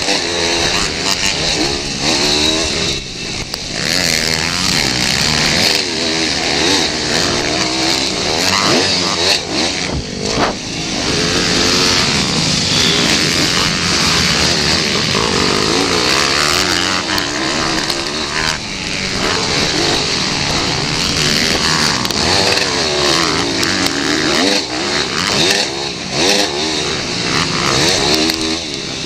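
Several pit bike engines racing, revving hard and backing off, their overlapping pitches rising and falling over and over.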